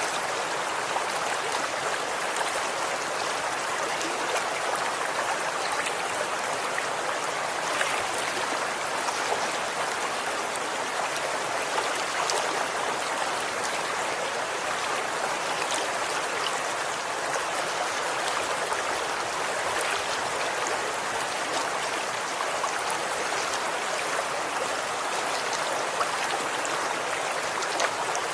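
Running water, a stream flowing steadily with fine splashing and trickling.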